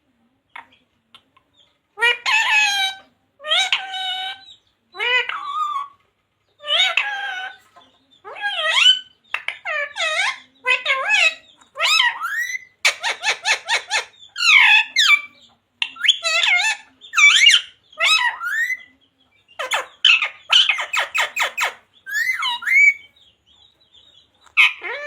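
Green parrot calling and chattering in a long series of short, high, bending squawks and voice-like calls, starting about two seconds in. Twice in the middle the calls break into rapid rattling chatter.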